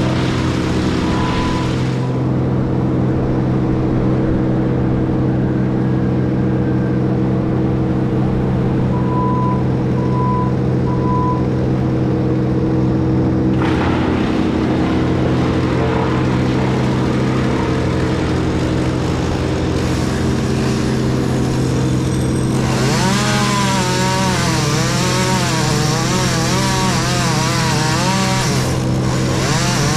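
Heavy diesel machinery running steadily, with a few short beeps about a second in and again around ten seconds in. About three-quarters of the way through, a wood chipper starts chewing wood, adding a louder grinding whose pitch wavers up and down as the load changes.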